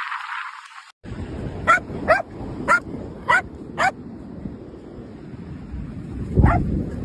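A dog barking: five quick, high barks about half a second apart, then one more near the end, over a steady rushing background noise.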